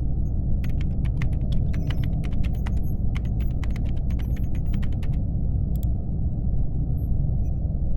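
Laptop keyboard typing: a run of quick key clacks lasting about four and a half seconds, then a single click, over a steady low hum of a spaceship-interior ambience.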